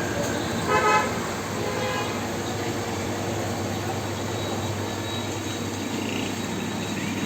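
Steady mechanical hum and hiss, with a short loud pitched toot about a second in and a fainter one near two seconds.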